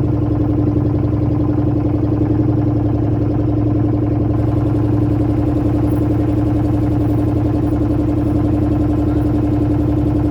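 Motorboat engine running steadily at an even speed, a loud, unchanging drone.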